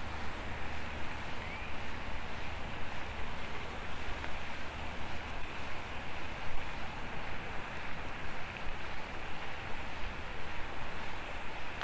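Steady rushing outdoor noise with a strong low rumble and an uneven, fluttering level.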